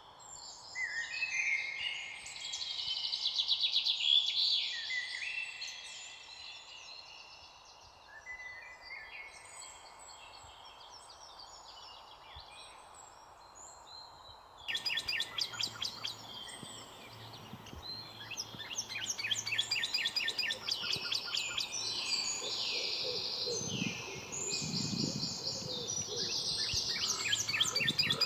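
Several birds singing and chirping, a dense chorus of high, rapid trills and repeated call notes. About halfway in, the background changes abruptly and a busier chorus of fast trills takes over.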